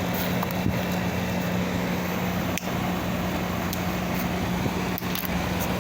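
Air conditioner with a freshly replaced compressor running at start-up, a steady hum with a fixed low tone, while the system is still short of refrigerant charge.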